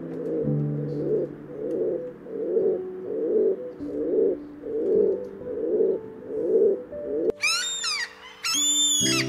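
Crowned pigeon giving a run of deep, low coos, about nine in a row a little under a second apart. Near the end a gull gives several high calls. Soft piano music plays underneath.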